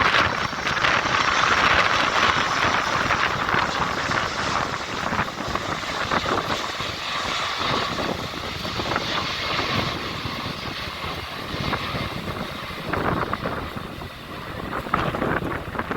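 Boeing 747-400F freighter's four jet engines passing, a steady rush that is loudest at first and slowly fades away.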